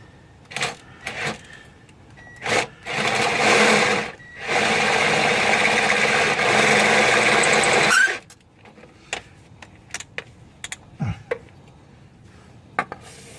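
Electric pistol drill run in two spells, one short spell about three seconds in and then a longer steady run that stops abruptly, drilling into a snapped exhaust stud in the manifold. Scattered knocks and clicks of tool handling come before and after.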